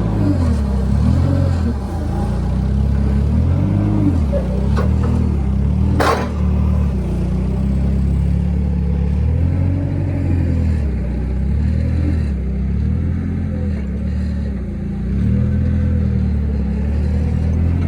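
A vehicle engine running at idle, its speed swelling and dropping back every few seconds, with a sharp metallic click about six seconds in.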